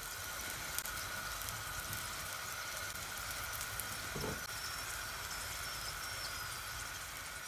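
Steady sizzling of food frying in hot oil, with a faint steady high tone underneath and a brief low swoosh about four seconds in.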